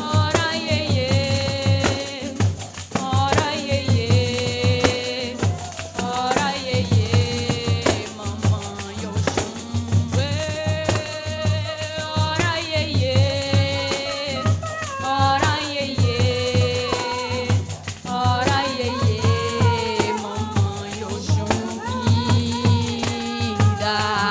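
Live music from a pandeiro ensemble: many pandeiros play a fast, driving rhythm of jingle rattles over deep regular drum-skin beats, with a melody over them in long held phrases.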